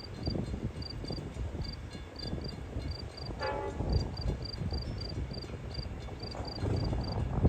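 Low rumble of a Long Island Rail Road diesel train, with insects chirping high and steadily in short groups of two or three. A brief pitched sound comes about three and a half seconds in.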